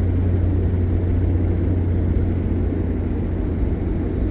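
Steady low drone of a vehicle's engine running, with a constant rushing of strong blizzard wind.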